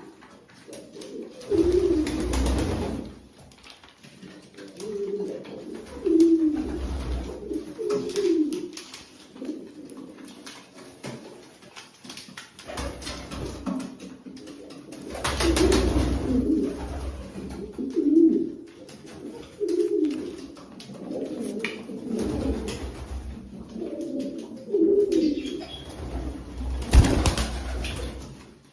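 Domestic pigeons cooing over and over, low warbling coos every second or two. A few louder rustling bursts come in between, the loudest near the end.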